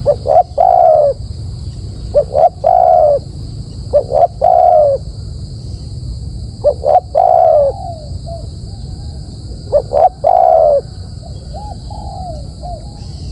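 A dove cooing: five phrases about two to three seconds apart, each two or three short notes and then a longer falling coo. A steady high hiss runs underneath.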